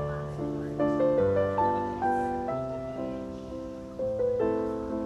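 Background piano music, a gentle repeating pattern of struck notes over sustained low bass notes.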